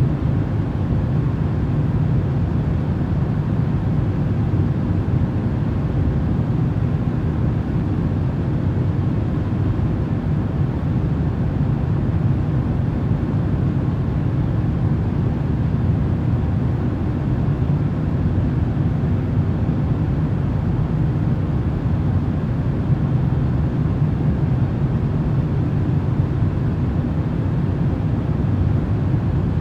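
Steady, unchanging rushing noise from a white-noise sleep track. It is deep rather than hissy, with most of its weight in the low end.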